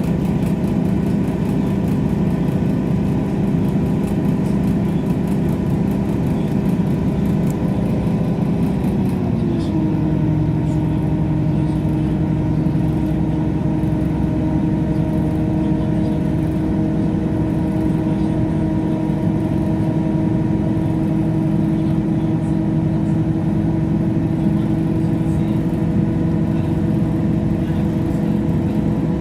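Train running, heard from on board: a steady engine and running drone whose main tone slides down a little in pitch about nine seconds in, then holds steady.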